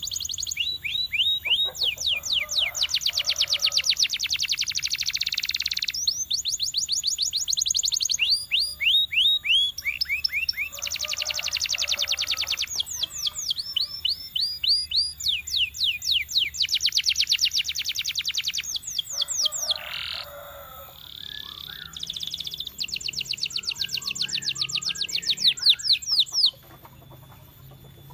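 Canary singing: its song is built of fast trills of rapidly repeated high notes. The phrases run a few seconds each and change in pitch and speed from one to the next. The song stops near the end.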